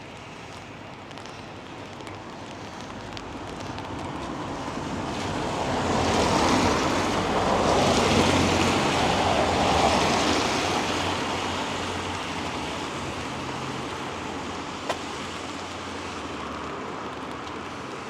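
A vehicle passing on a wet road: tyre hiss and a low engine hum swell to a peak about halfway through, then fade away. Steady light rain hisses underneath.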